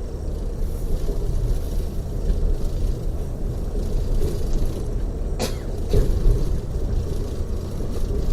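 Steady low rumble of a coach bus cruising on a freeway, heard inside the passenger cabin: engine and tyre noise. A sharp click comes about five seconds in, followed by a small thump.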